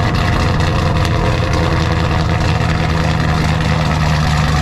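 A car engine running at a steady idle, close and loud, with no revving.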